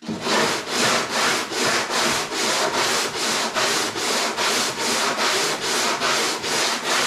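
Hand abrading tool scraped back and forth over the boat's wooden hull in fast, even strokes, about three to four a second: the hull being smoothed down by hand instead of with a power sander.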